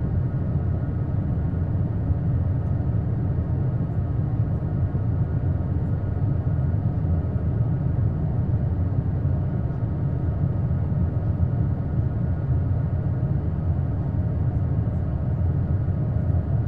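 Steady engine and airflow rumble of an Airbus A220's Pratt & Whitney PW1500G geared turbofans heard inside the cabin, with faint steady whining tones above the low drone.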